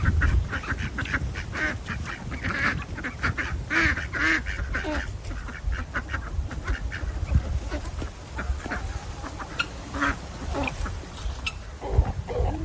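Domestic ducks quacking in a rapid series of short calls, busiest in the first five seconds and thinning out after. A low rumble runs underneath, strongest at the start.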